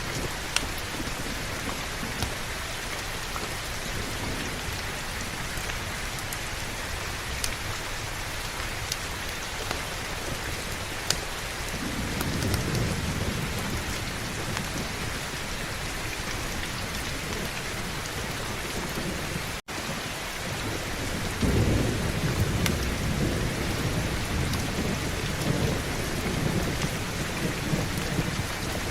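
Steady heavy rain with rolling thunder: a low rumble builds about twelve seconds in and a louder one follows near twenty-one seconds. A few sharp ticks stand out above the rain, and the sound cuts out for an instant near the middle.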